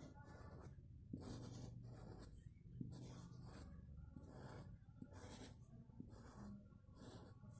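Faint, repeated scratchy strokes, about one every half second, of a kolam being drawn by hand on the floor, over a low steady hum.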